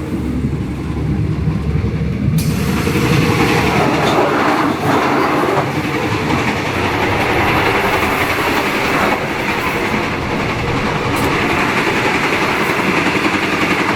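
Passenger train running on the rails, heard from on board. About two seconds in the noise becomes suddenly louder and brighter, and it stays that way.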